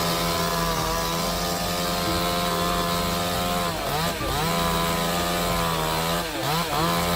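Chainsaw engine running at high revs with a steady pitch for several seconds. Its pitch drops sharply and climbs back a few times, about four seconds in and again near the end.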